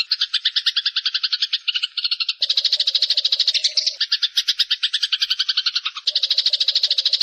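Eurasian tree sparrows giving a fast, continuous chattering run of chirps, about ten a second. The pattern shifts abruptly about two and a half seconds in and again about six seconds in, as another voice with a lower part joins.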